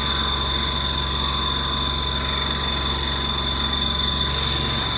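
Haas Mini Mill 2 CNC spindle driving a single-flute high-feed end mill through 6Al-4V titanium, a steady cutting sound over a low hum with a squeaky high-pitched squeal held throughout. A brief hiss comes in near the end.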